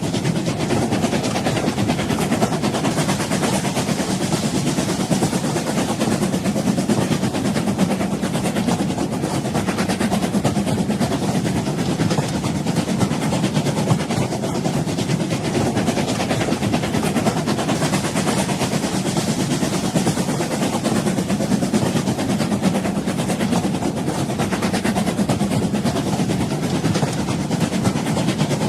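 Train running on the rails: a steady noise of wheels and cars in motion, even in level throughout with no distinct beat.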